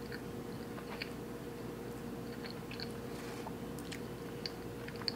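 Faint, close-up chewing of a bite of cinnamon roll doughnut: small scattered wet mouth clicks over a steady low hum.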